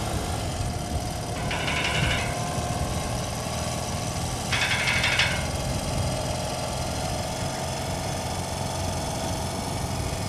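Soviet Izh motorcycle's two-stroke engine running steadily, with two short higher-pitched bursts about two and five seconds in; the sound cuts off suddenly at the end.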